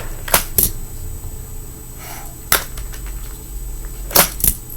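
Fingerboard deck and trucks clicking sharply on a hard surface as tricks are popped and landed: a quick pair of clicks near the start, a single click about two and a half seconds in, and another quick pair near the end.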